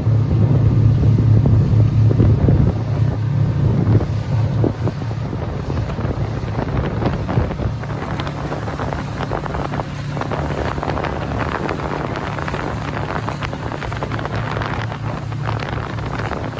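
Towing speedboat's engine running with a steady drone, easing a little after about four seconds, with wind buffeting the microphone and water rushing and splashing.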